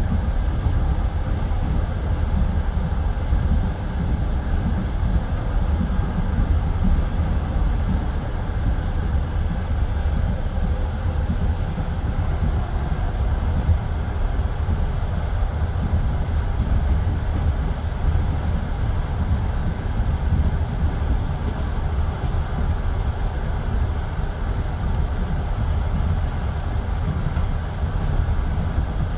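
Passenger train carriage running along the track, heard from inside the carriage: a steady low rumble of wheels on rails.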